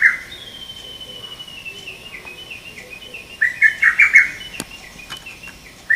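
Male lesser cuckoo singing its sharp, loud phrase of five or six quick notes (the 'tokkyo kyoka kyoku' song), once about three and a half seconds in, with the tail of a previous phrase at the start and the next beginning at the very end. Between phrases, a quieter bird gives a descending run of thin high notes.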